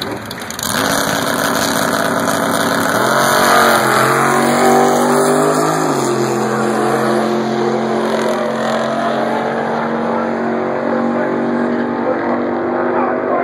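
Drag race cars launching off the line and accelerating hard down the strip. The engines come up loudly about a second in, and their pitch jumps about three seconds in and again about six seconds in before running on steadily.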